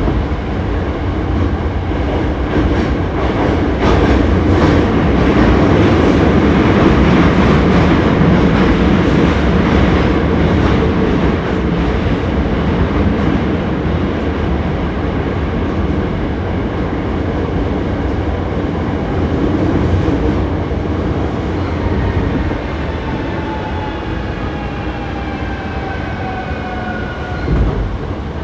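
Hankyu 7300 series electric train car running, heard from inside the car. Its wheels clatter over the rails with a run of clicks in the first half. From a little past the middle, the motor whine falls steadily in pitch as the train slows.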